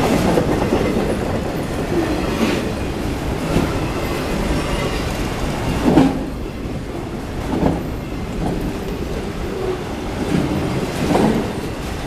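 Autorack freight cars rolling past: a steady rumble of steel wheels on rail with irregular clacks as the wheels cross rail joints. The loudest clack comes about six seconds in.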